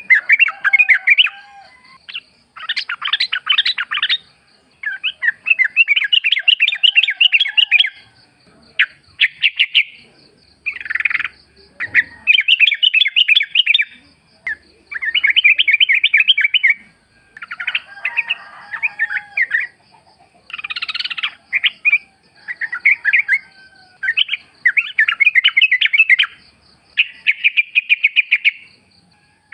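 Yellow-vented bulbul (trucukan) singing: short bursts of quick, bubbling chattering notes, one to two seconds each, repeated over and over with brief pauses. A thin, steady high buzz runs behind them.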